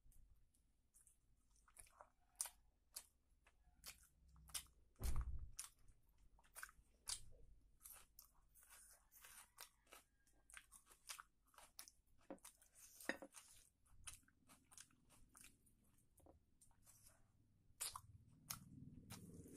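Close-mic chewing and biting on a curried chicken leg eaten by hand: many small, irregular wet clicks and crunches, with one louder thump about five seconds in.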